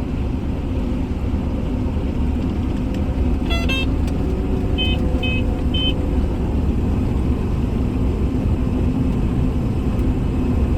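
A combine running steadily while harvesting corn, a constant low rumble with a steady hum. A few short electronic beeps sound about four to six seconds in.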